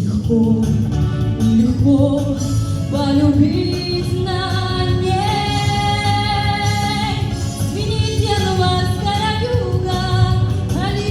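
A song: a woman's voice singing long held notes over a steady instrumental backing.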